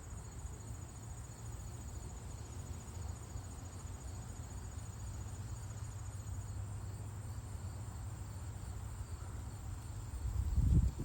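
Crickets chirping in a fast, high, even trill that stops about two-thirds of the way through, over a steady low rumble. A louder low thump comes near the end.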